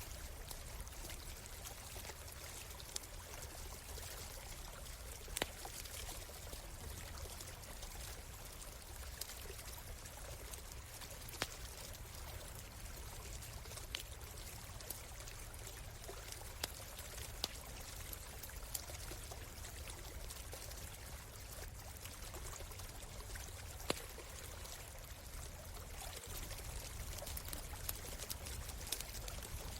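Shallow stream flowing and trickling steadily, with a handful of sharp pops from a crackling wood campfire.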